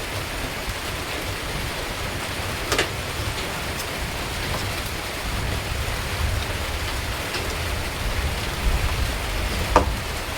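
Steady rain falling, with two short sharp clicks, one about three seconds in and one near the end.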